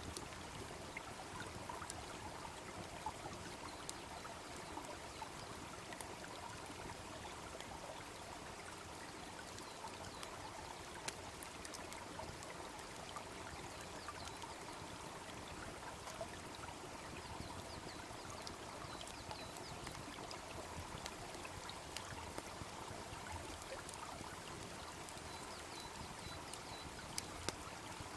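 Small brook babbling steadily, with occasional sharp pops and crackles from a wood campfire; a few of the pops are louder near the end.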